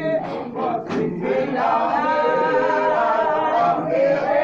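A group of voices singing together unaccompanied: short sung syllables at first, then held chords in harmony from about a second and a half in.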